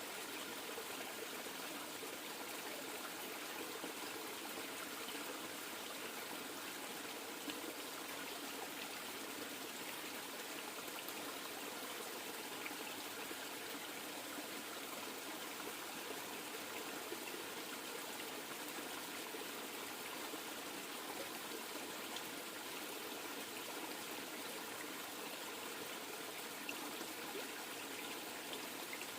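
River water flowing and trickling, a steady even rush.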